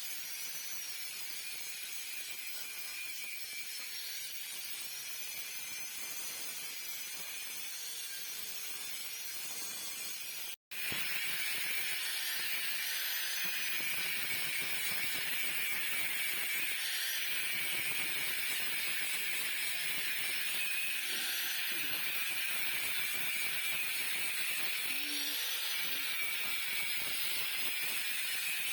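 Steady hissing workshop noise with a faint high whine that slowly wavers in pitch. It cuts out for an instant about ten seconds in, then resumes a little louder.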